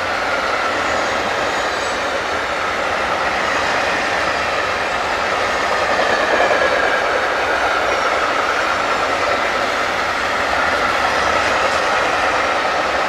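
Long freight train of open box wagons rolling past on steel rails, a steady rumble and rattle of wheels with a wavering high tone above it.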